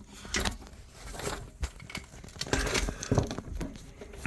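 Irregular rustling, scraping and small knocks of a person shifting about in a cramped dirt hole.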